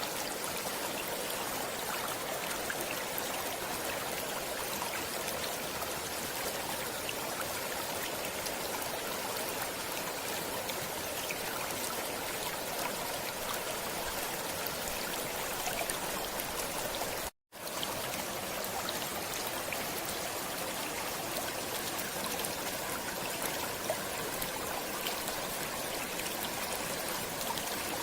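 Steady rushing and trickling of flowing stream water, broken once by a split-second dropout to silence partway through.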